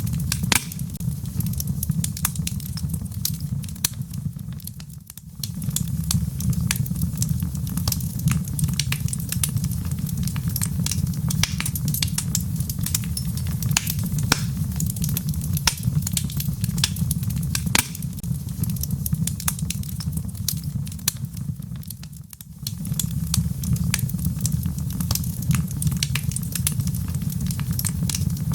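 Wood fire crackling in a fireplace: a dense stream of small snaps and pops over a steady low rumble. The sound dips briefly twice, about five seconds in and again near 22 seconds.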